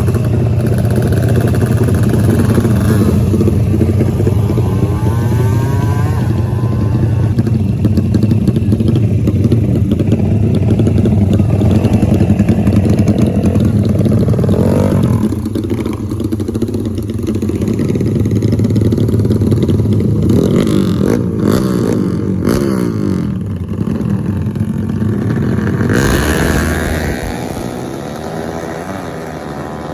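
Motorcycle engine running and revving, its pitch rising and falling several times in the second half; it becomes quieter near the end.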